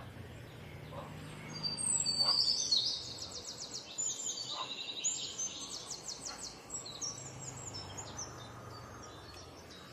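Small birds chirping in quick, high, repeated trills for several seconds, over a faint low steady hum.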